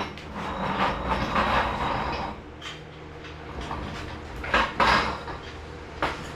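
Irregular metallic clanking and rattling of hand tools and parts, with a sharper cluster of knocks about four and a half seconds in and another near the end, over a faint steady low hum.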